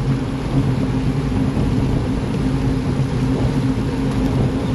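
Steady rush of wind and road noise from riding in a moving bicycle race, with a low steady hum underneath.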